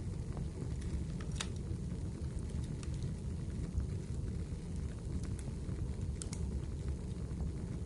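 Wood fire burning in a fireplace: a steady low rumble of flame with scattered sharp crackles and pops from the burning firewood, the clearest about a second and a half in and a few more past the middle.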